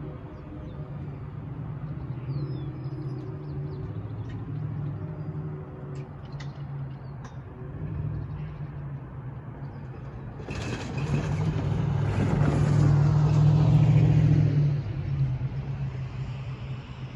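A road vehicle passes: its noise builds about ten seconds in, peaks, then falls away quickly over a steady low engine hum.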